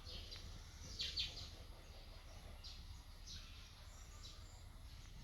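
Birds chirping faintly, short high calls about once a second, over a steady low rumble.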